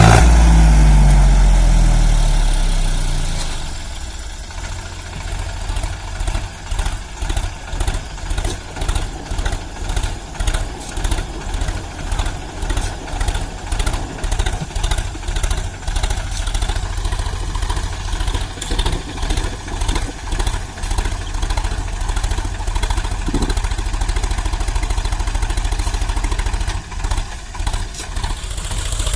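Sonalika 745 tractor's diesel engine, loud at first with its revs falling over the first few seconds, then running at low speed with an even pulsing.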